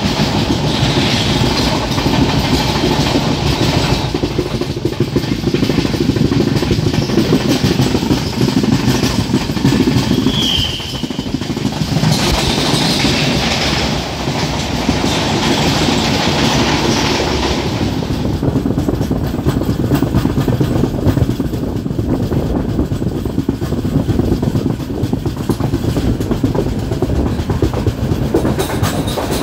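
Passenger train coach running along the track, its wheels clattering over the rails over a constant rumble. There is a brief high squeal about a third of the way in, and the hissy upper part of the noise dies down about two-thirds of the way through.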